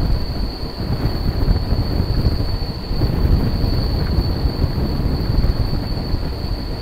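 Electric suburban local train (EMU) running along the track, a steady heavy rumble of wheels on rails from its open doorway. A steady high-pitched whine sits over it.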